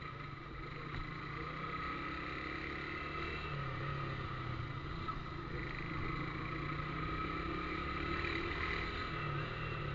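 Motorcycle fitted with a new aftermarket exhaust, its engine running steadily, the note rising slightly about three and a half seconds in.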